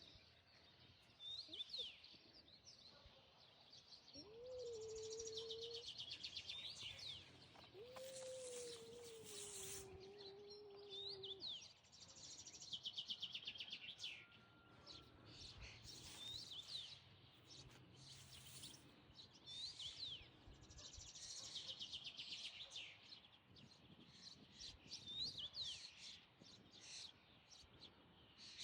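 Small songbirds chirping and trilling over and over, with two long, drawn-out low wails a few seconds in, the second one longer.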